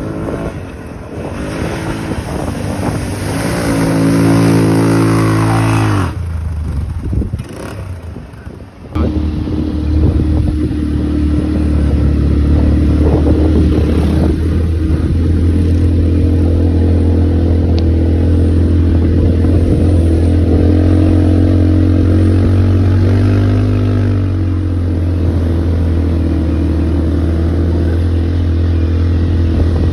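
ATV engine running, revving up over the first few seconds and cutting off abruptly about six seconds in. After a brief lull it picks up again about nine seconds in and runs at a fairly steady pace, with a slight change in pitch near the three-quarter mark.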